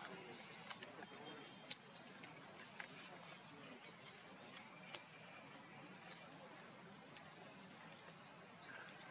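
Quiet outdoor ambience in which a bird repeats short, high chirps, some rising and some dipping and rising again, about one a second. Two sharp ticks are heard, about two seconds in and again about five seconds in.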